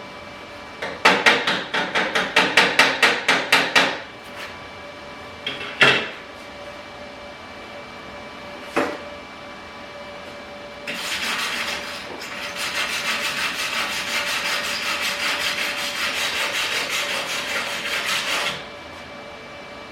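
Sharp, fast, even strikes for about three seconds from a second in, then a Primeweld MIG 160 welding without gas (flux-core wire), its arc crackling steadily for about seven seconds from eleven seconds in. The welder takes the bead for too much wire speed.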